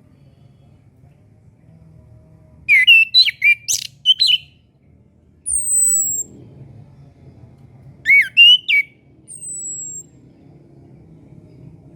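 Chestnut-capped thrush singing: two short phrases of quick, varied whistled notes, each followed by a thin, very high whistle sliding downward.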